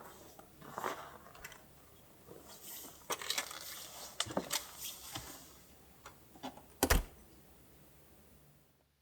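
Small objects being handled: rustling with light clicks and clinks, and one heavier knock about seven seconds in.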